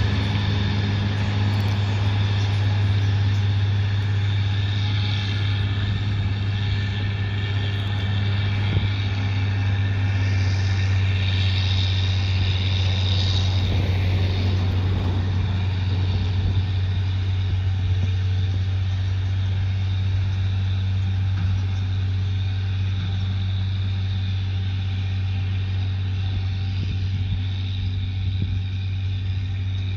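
Heavy diesel engine running at a steady speed, a low even drone that eases off slightly toward the end.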